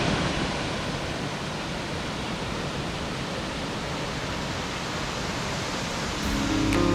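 Steady roar of the Triberg Waterfalls, water cascading down a rocky falls. Guitar music fades back in near the end.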